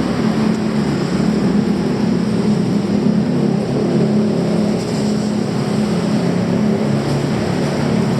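Steady, loud vehicle noise: a continuous engine hum over a wash of road or running noise, with no single event standing out.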